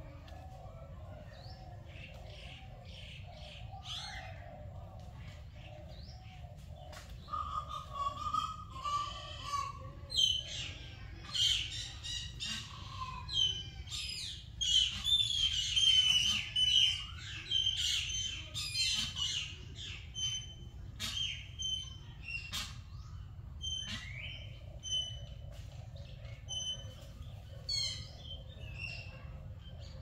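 Several birds chirping and whistling, starting about seven seconds in and busiest midway, then thinning to single short notes repeated about once a second near the end. A steady low rumble runs underneath.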